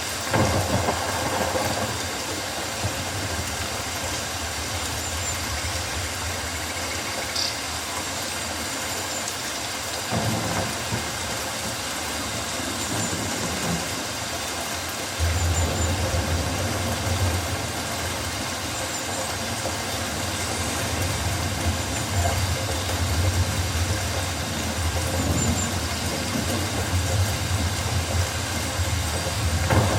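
Steady rain falling on rainforest foliage, with a low rumble that comes in about halfway through and continues.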